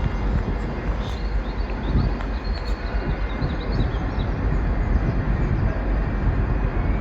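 A train moving through the station: a steady low rumble with faint, short high squeaks in the first few seconds.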